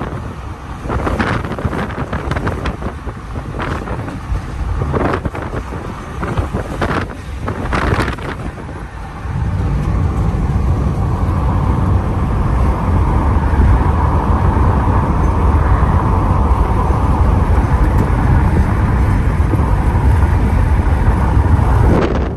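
Wind buffeting the microphone of a moving car, in irregular gusts at first; about nine seconds in it turns into a steady, louder, heavy rush of wind and road noise.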